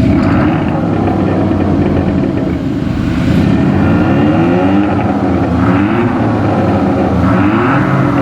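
Hyundai Tucson TL's engine and exhaust, with a Veloster N Performance exhaust and a JSR Xhaust active sound booster, running at a steady note and then revved up and down several times from about three seconds in.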